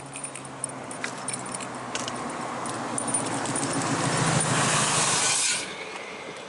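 A vehicle engine running and growing steadily louder over several seconds, with light jingling and clicks, then cutting off suddenly about five and a half seconds in.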